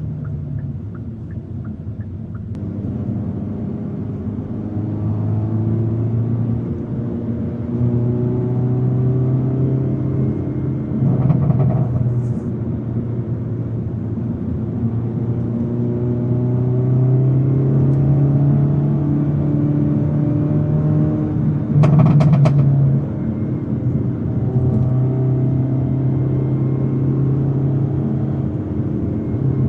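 Hyundai Avante N (Elantra N) 2.0-litre turbo four-cylinder engine and exhaust heard while driving, the engine note climbing and dropping back several times as the car accelerates and shifts gear. There are two brief louder bursts, about 11 and 22 seconds in.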